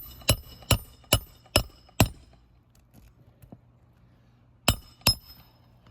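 Hammer striking roofing nails during a shingle spot repair: six sharp ringing blows about two a second, a pause, then two more near the end.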